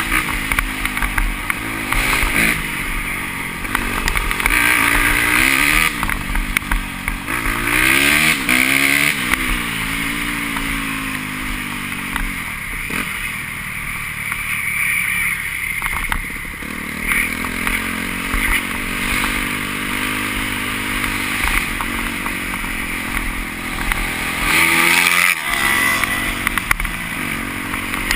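Motocross motorcycles racing, their engines revving up and falling off again and again as riders accelerate and shift, with several loud surges a few seconds apart and a sharp rising rev near the end.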